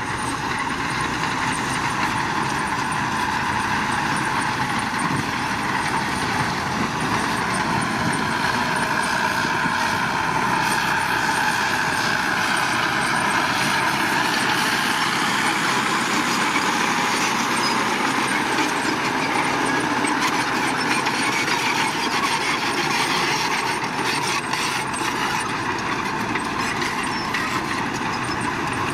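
Heavy earthmoving machinery running steadily, a continuous engine and machine noise.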